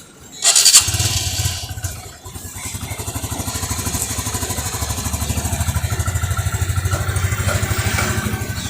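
A 110cc motorcycle's single-cylinder engine is electric-started and catches within about a second of the starter's brief burst, then settles into an even, fast-pulsing idle. The engine is in fresh, unworked condition.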